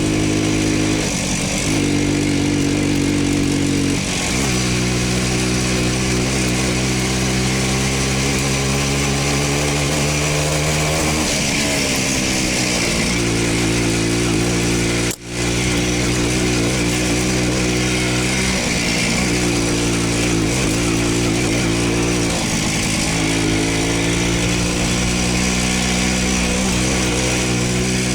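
Voskhod two-stroke single-cylinder motorcycle engine running under way, its pitch dropping and climbing again several times as the throttle is eased and gears are changed. There is a momentary break about halfway through.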